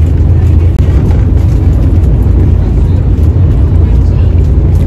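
Steady low rumble of an Italo high-speed train running at speed, heard from inside the passenger car.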